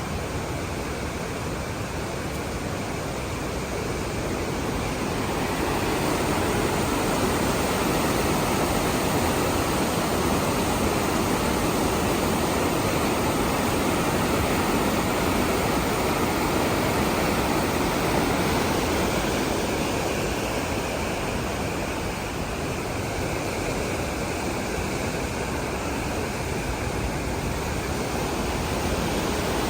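Waterfall: the steady rush of falling water, growing a little louder for a stretch in the middle.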